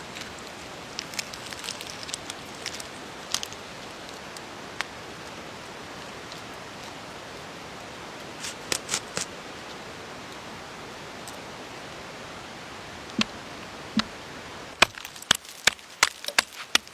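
Steady rain hiss with scattered sharp ticks of drips. About fifteen seconds in, the rain sound cuts off abruptly and a run of loud, sharp knocks begins, about three a second, like chopping.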